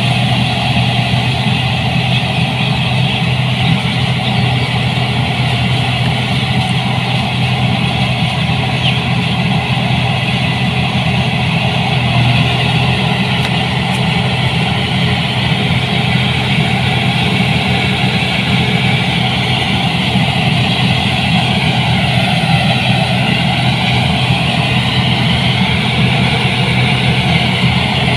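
New Holland 8060 combine harvester's engine running steadily, with a constant low hum and no change in speed.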